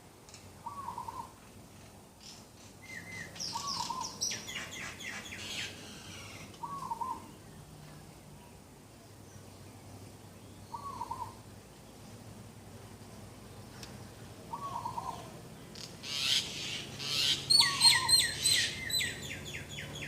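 Morning birdsong: one bird repeats a short call every three to four seconds, six times, while other birds break in with rapid, high chirping around four seconds in and again, loudest, near the end.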